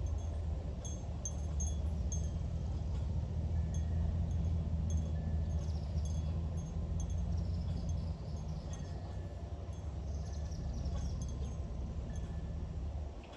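Wind chimes ringing in irregular, scattered strikes as gusts move them, over a heavy low rumble of wind buffeting the microphone. The rumble drops off suddenly near the end.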